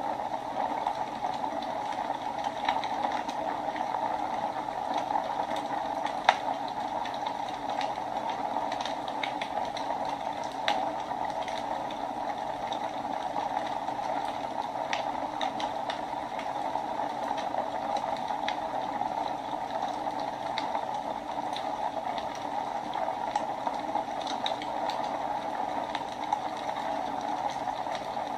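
Wood fire burning in a fireplace: a steady rushing hiss with scattered small crackles and a sharp pop about six seconds in.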